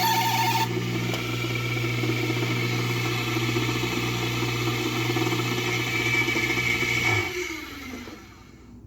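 Kawamoto N3-256SH well pump's electric motor running with a steady hum and the abnormal noise it makes when running, then switched off about seven seconds in and winding down to a stop with a falling pitch.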